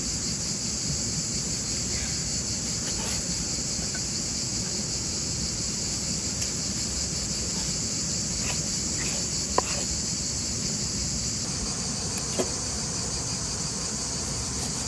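Steady high-pitched insect chorus droning without a break, with a couple of sharp taps partway through.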